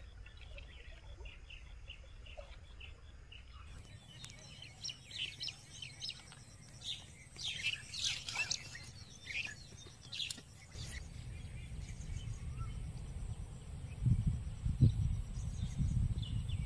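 Small birds chirping outdoors, a flurry of short, quick calls from about four seconds in that thins out after about eleven seconds. Low rumbling thumps come near the end.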